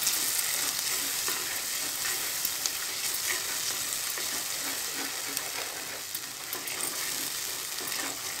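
Ground masala and small onions frying in oil in a clay pot, sizzling steadily while a wooden spatula stirs and scrapes them, with scattered small clicks. The masala is being fried until its raw smell goes.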